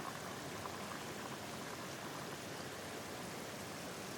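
Pot of kimchi broth simmering with a steady, even sound.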